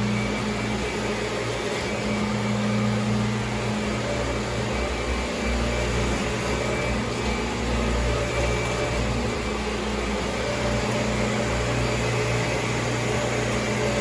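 Kirby G4 upright vacuum cleaner running steadily: a constant motor hum with a whooshing rush of air.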